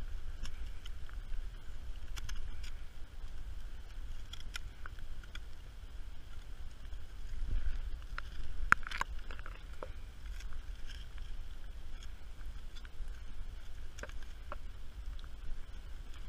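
Steady low rumble, like wind on the microphone, with scattered light clicks and scrapes of hand digging in a wet hole; a short cluster of louder knocks comes about halfway through.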